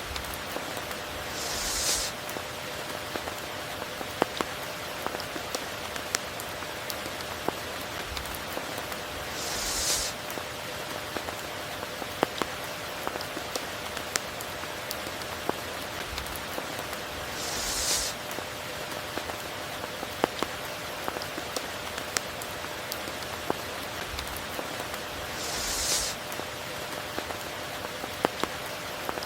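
Steady rain with individual drops ticking sharply, and a short hiss that swells up and stops about every eight seconds, four times.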